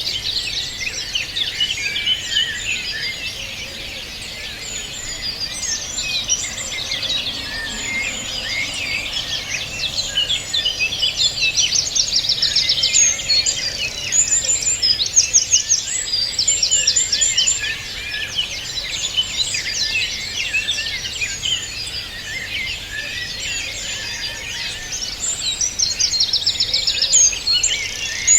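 A dense chorus of many songbirds singing and chirping at once, with quick repeated-note trills standing out several times.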